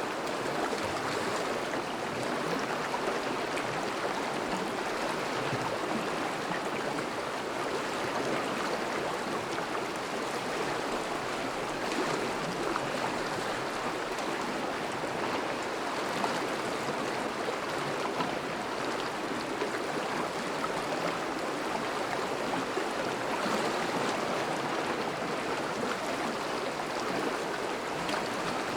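Thawing river flowing steadily: an even rush of moving water.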